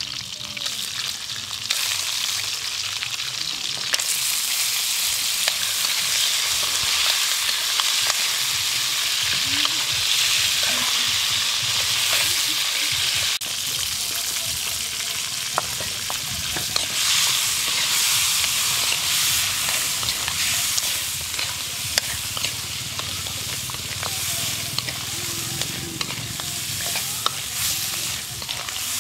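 River crabs sizzling as they fry in hot oil with garlic in a steel wok, a steady hiss with frequent small pops and crackles. They are stirred with a spatula near the end.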